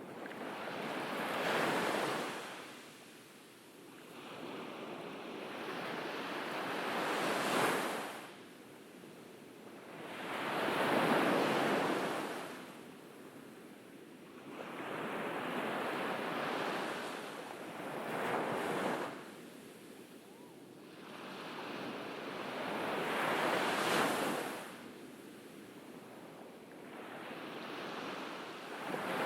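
Ocean waves breaking on a beach, one after another: each surge rises to a loud hiss and falls away, about every five or six seconds.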